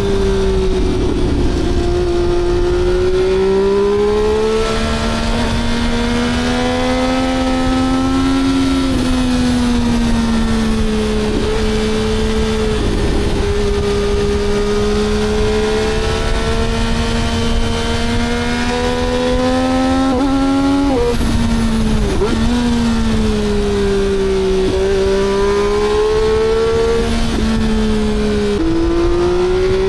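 Three-cylinder engine running hard at high revs under way. Its pitch climbs slowly and drops sharply about eight times, as it changes gear or comes off the throttle.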